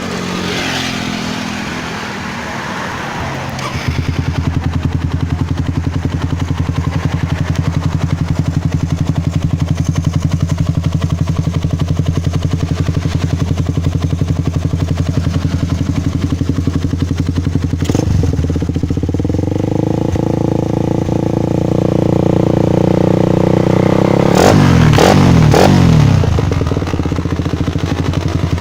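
Suzuki Satria FU 150 single-cylinder engine running through a WRX K2 oval sandblast aftermarket exhaust, with a deep, bassy note. It settles into a steady idle about four seconds in, and is given a few quick throttle blips a little before the end.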